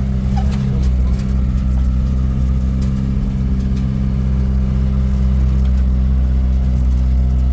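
Car engine running steadily, a low, even drone that does not change in pitch.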